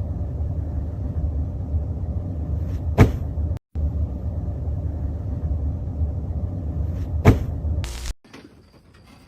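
A steady low rumble with a sharp knock about three seconds in and another about seven seconds in; the rumble drops out briefly between them and stops suddenly near the end.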